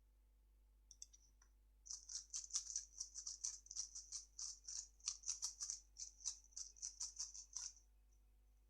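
A 3x3 speedcube being turned fast: a few single clicks, then about six seconds of rapid clicking layer turns that stop abruptly.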